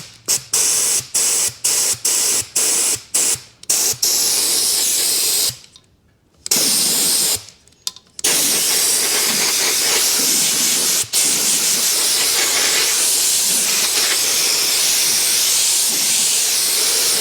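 Compressed-air undercoating gun with a wand attachment spraying oil, trigger-tested. It starts with a quick run of short hissing bursts, then gives a couple of longer bursts, and from about eight seconds in holds a steady spray, broken once for a moment near eleven seconds.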